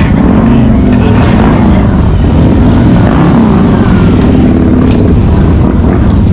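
Harley-Davidson Sportster V-twin motorcycle engine running while under way, loud and steady, its pitch wavering slightly up and down.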